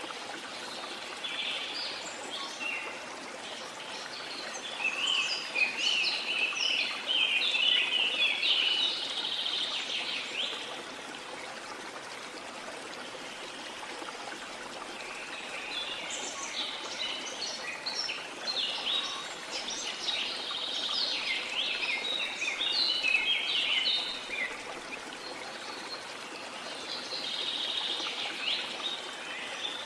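Steady rush of a waterfall, with birds singing over it in two long spells of rapid chirps and trills; a third spell starts near the end.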